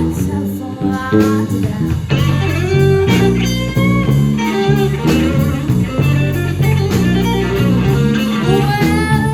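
Live blues band playing a slow blues, with an electric guitar bending notes over bass and a steady drum beat.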